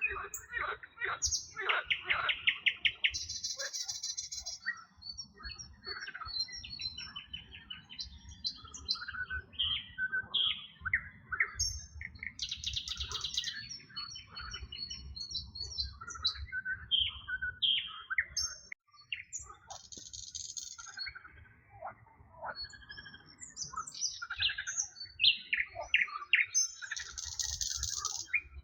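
Several songbirds singing at once: overlapping chirps, whistled notes and quick rattling trills, with a dense buzzy trill coming back every several seconds.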